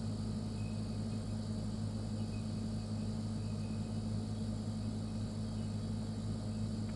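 Refrigerator running with a steady low hum that holds unchanged throughout, with a faint even hiss above it.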